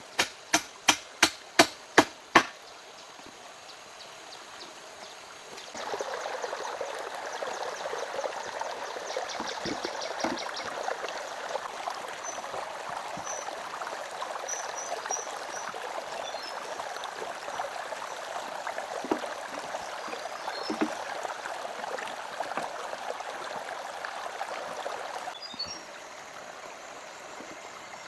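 Steady hammer blows, about three a second, stopping after two or three seconds; then, from about six seconds in until near the end, a steady rush of running water, which cuts off abruptly.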